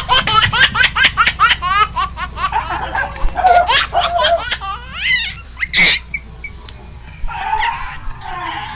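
High-pitched laughter: a rapid run of short rising cries, about five a second, for the first two seconds, then scattered ones, easing into softer low sound near the end.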